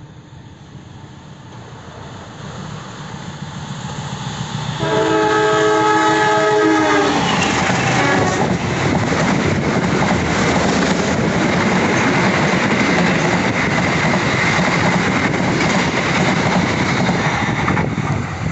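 A Matarmaja passenger train comes up through the station and passes on the adjacent track without stopping. It grows louder as it approaches, its locomotive sounds a two-second horn about five seconds in, and then its coaches rumble and clatter past steadily for about ten seconds.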